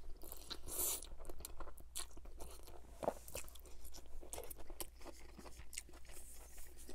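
Close-miked chewing of a mouthful of spaghetti bolognese: wet, irregular mouth clicks and smacks, with a short slurp of noodles about a second in.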